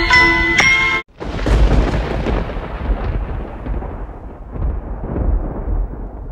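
Music with bell-like mallet tones cuts off about a second in. A thunderclap then breaks and rolls into a long, low rumble that slowly fades.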